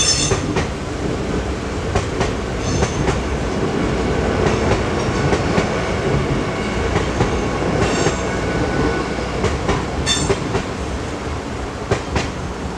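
Train passing over the level crossing: a steady rumble, with the wheels clacking over the rail joints at uneven intervals.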